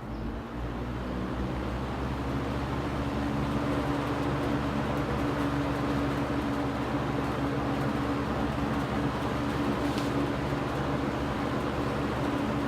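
Superlectric Model 2083 box fan running on high, coming up to speed over the first few seconds and then a steady hum with rushing air. Its plastic blades are out of balance, so the fan shakes as it runs; the owner puts the warping down to decades in a hot attic.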